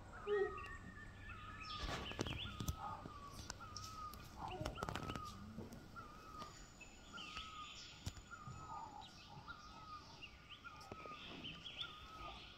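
A bird calling over and over, one short chirp about three times every two seconds, with a few faint knocks and rustles.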